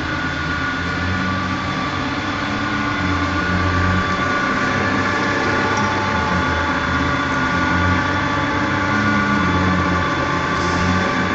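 Electric drive motor turning a sectioned engine and gearbox training rig, running at a steady speed with a constant mechanical hum and whine.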